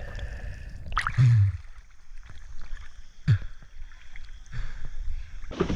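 Muffled underwater sound of a free dive: a steady low rumble of water with two sudden low gurgling thumps about two seconds apart. Near the end the sound changes abruptly to a brighter, airy noise.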